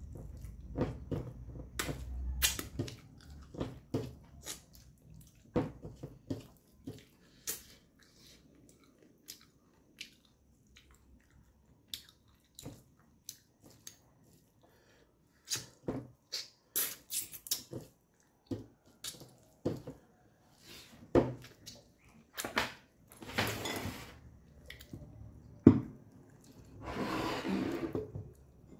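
Close-up mouth sounds of eating rice and dried-meat curry by hand: irregular wet chewing clicks and lip smacks with quiet gaps between bites, and a couple of longer, louder noisy stretches near the end.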